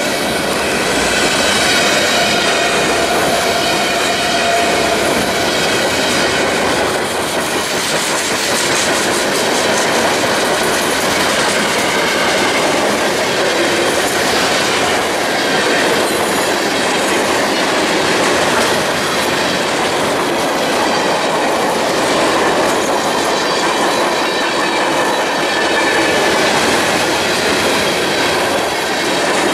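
Freight cars rolling past close by: steel wheels running on the rails in a steady, loud clatter, with clickety-clack over the rail joints.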